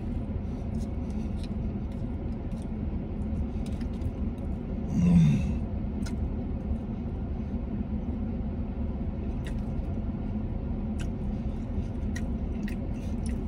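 A man chewing a mouthful of cheeseburger, with faint scattered mouth clicks, and a short low moan that falls in pitch about five seconds in, over a steady low rumble in the car cabin.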